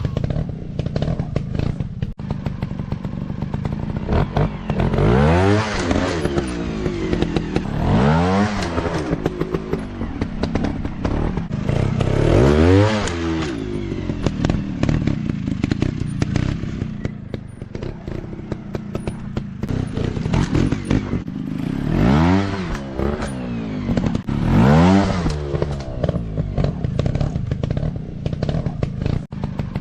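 Dirt bike engines running hard, rising and falling in pitch about five times as the throttle is opened and closed, with short knocks and rattles throughout.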